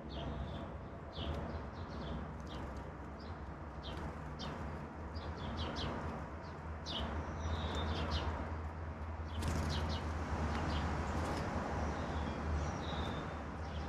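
Songbirds chirping: short high calls from several birds, scattered irregularly, over a steady low rumble.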